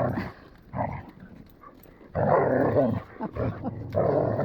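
Dogs growling and snarling at each other in rough play, in harsh bursts: a short one near the start, a loud one about two seconds in and another near the end.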